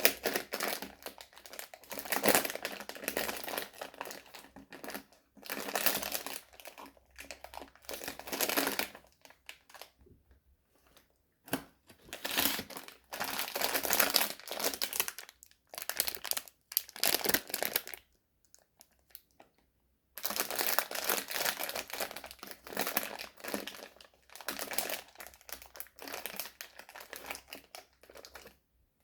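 Sweet wrappers being crinkled and handled in long crackling stretches, with two short pauses, one about ten seconds in and one about eighteen seconds in.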